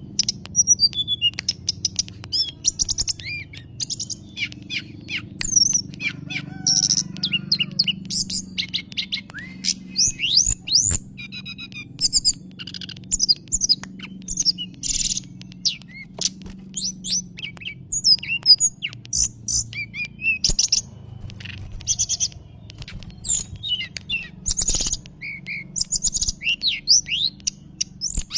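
Sulingan gunung (mountain tailorbird) singing: a fast, continuous run of high whistles, chirps and rising and falling sweeps with only brief gaps. It is a lure recording, used to set other birds answering. A faint steady low hum runs underneath.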